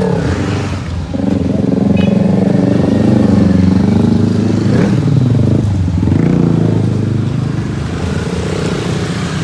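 Motorcycle engine pulling away, running loud. Its pitch drops briefly about a second in and again about six seconds in, as at gear changes, and climbs again after each.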